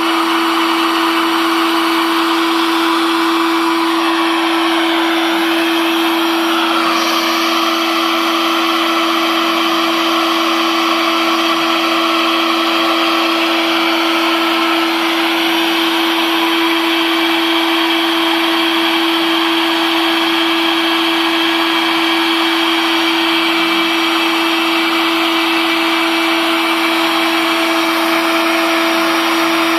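Homemade CNC router cutting MDF: the spindle motor runs at a steady high speed with a constant hum, over the noise of the bit cutting. Higher tones glide and shift a few times as the machine changes its moves.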